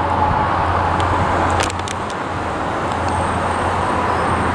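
Road traffic: a motor vehicle running close by, a steady low engine hum under tyre and street noise.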